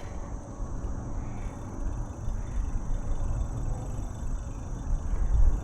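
Uneven low rumble of wind and ride noise on the microphone of a moving bicycle, with a faint steady high drone of insects behind it.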